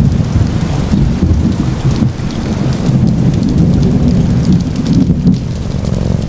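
Steady rain falling, with a deep, rolling low rumble beneath it that eases off about five seconds in.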